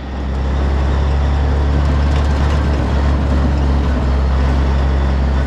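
Vehicle engine and drivetrain drone from a moving vehicle: a loud, deep, steady hum that swells in the first half second and then holds.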